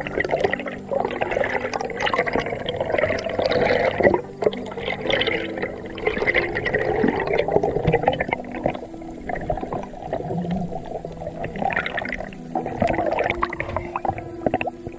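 Water rushing and gurgling around an underwater camera during a dive, in uneven surges.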